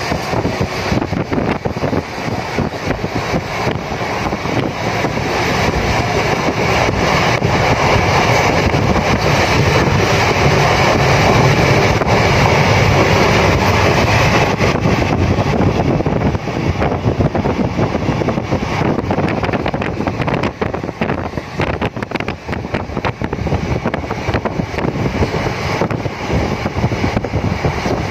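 Circar Express passenger train running along the track, heard from inside a carriage: a steady rumble and rattle of the coach on the rails, with wind buffeting the microphone.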